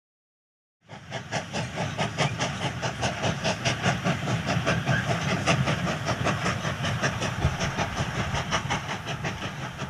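Railway coach rolling along jointed track, its wheels clicking in a fast, even rhythm over a steady rumble and hiss; it starts about a second in.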